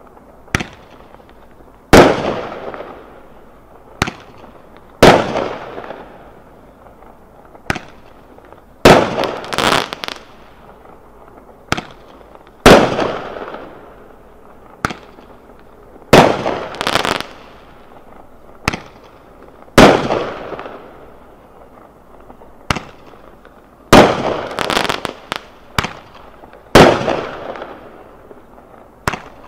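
A 73-shot consumer firework cake firing its shots one after another. Each shot is a sharp report that trails off, coming every one to three seconds, with quick runs of several reports about a third of the way in and again near the end.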